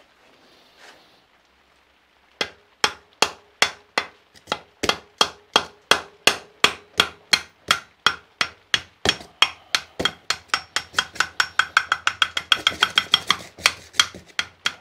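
Steady hammer taps on a metal engine mounting bolt, driving it through the engine and frame lugs, each tap with a short metallic ring. The taps begin about two seconds in at about three a second and quicken near the end.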